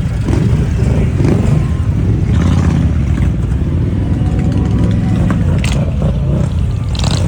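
Motorcycle engines running, with some revving: a loud, steady low rumble.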